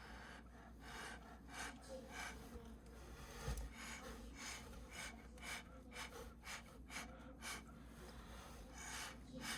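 A person breathing out in short, repeated hissy puffs, about two a second.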